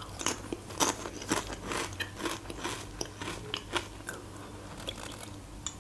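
Close-miked chewing of a crunchy potato chip: a run of crisp, irregular crunches, two or three a second, that die away about four seconds in.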